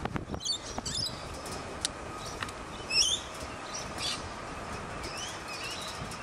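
Birds chirping in short repeated calls, the loudest about three seconds in, over the steady low sound of a distant approaching diesel train.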